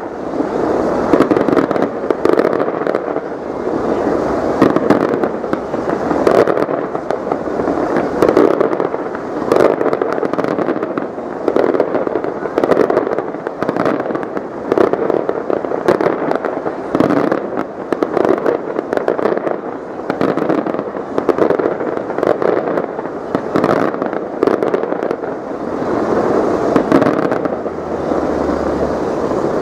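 Fireworks display going off continuously: a dense rattle of pops and crackles with many sharp reports, swelling and easing every second or two without a break.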